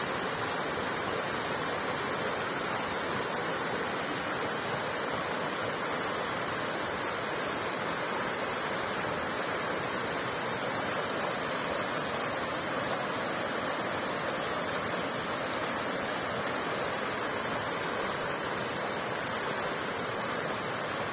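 Steady rushing water, an even unbroken roar with no separate events.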